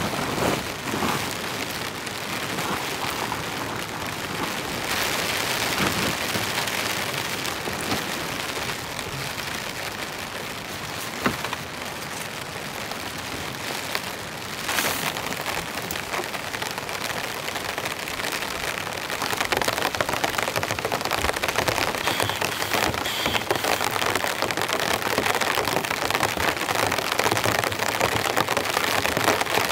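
Heavy rain falling steadily, growing louder about two-thirds of the way through, with one sharp tap near the middle.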